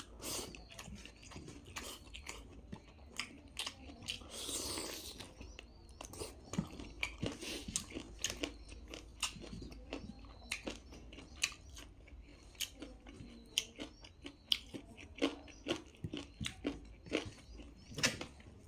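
Close-miked chewing and biting: a steady run of short wet clicks and crunches from a person eating, with a longer rushing sound about four to five seconds in.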